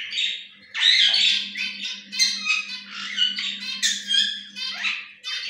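Caged pet birds squawking: a rapid run of harsh, raspy calls, one after another.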